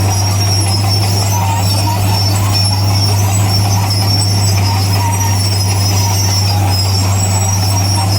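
Crawler bulldozer's diesel engine running with a steady low drone, with high metallic squealing from the steel tracks.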